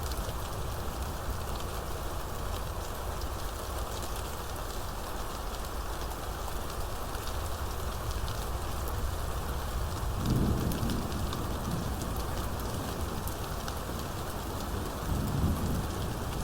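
Steady heavy rain, with a dense patter of drops over a low rushing noise. Two brief low rumbles come through about ten and fifteen seconds in.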